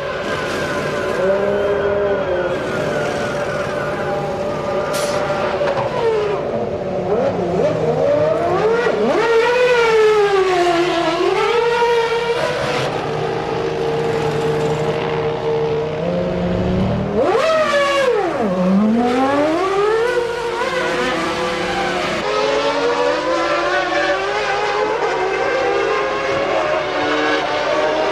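1995 Formula One cars' high-revving racing engines screaming up through the gears and dropping on the shifts, several cars at once, with one passing close by and its pitch swooping down about two-thirds of the way through.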